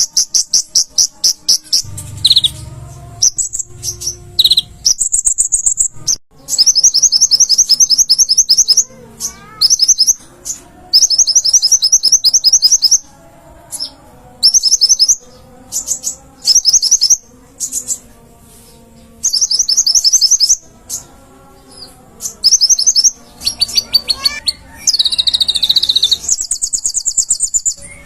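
A konin (kolibri ninja sunbird) singing loud, very high, rapid chattering trills in repeated bursts of a second or two, with short pauses between them.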